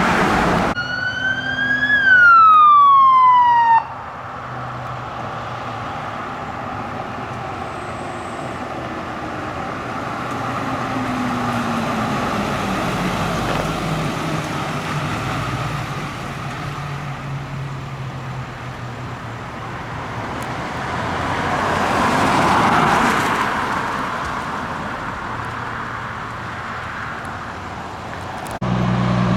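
Emergency vehicle siren wailing up and then down once, cutting off abruptly after about three seconds. Steady road and heavy engine noise follows, swelling as a vehicle passes about two-thirds of the way through.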